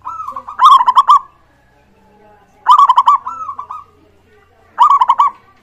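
Zebra dove (perkutut) singing: three cooing phrases about two seconds apart, each a quick run of rolling, looping notes.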